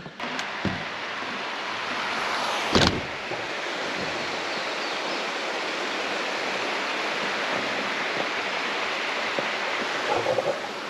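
Steady rush of a stream or creek flowing, with one short knock about three seconds in.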